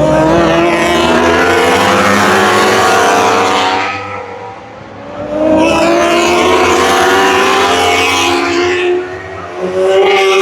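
Racing superbikes passing at full throttle, their engines revving high and rising in pitch as they accelerate. A pack goes by, the sound dips about four to five seconds in, then more bikes come through, and another surges past near the end.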